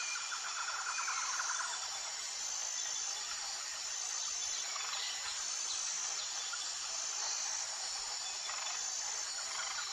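Tropical forest ambience: a steady high-pitched drone of insects, with a rapid trilling call from an animal during the first second and a half.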